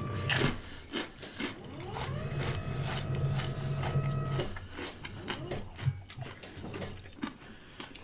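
Close-miked chewing of sandwiches, with many small irregular wet clicks and crunches of eating. A held hum runs through the middle of it.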